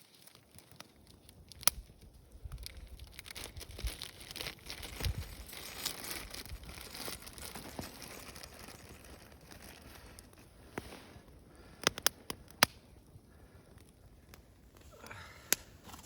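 Plastic packaging being torn open and crinkled, with a few sharp clicks or taps scattered through.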